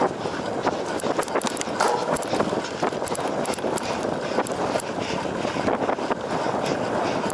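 Cyclocross bike clattering over rough ground: a steady rush of wind and tyre noise with many irregular clicks and knocks from the chain and frame.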